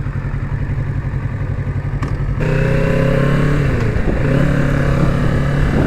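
Kawasaki Z650's parallel-twin engine running under way. About two and a half seconds in it gets louder and higher, as the throttle opens. A little later its pitch dips briefly and recovers.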